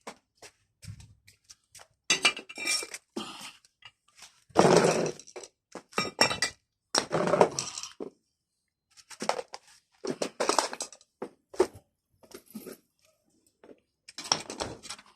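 Metal tools and parts clinking and clattering in irregular bursts, handled and set down during work on a manual car window regulator.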